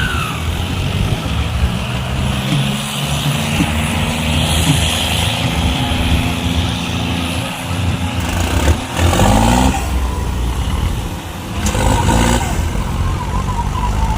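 Diesel tractor engines running hard under load, two tractors chained together and pulling against each other in a tug-of-war. The engine sound grows louder and deeper about nine seconds in.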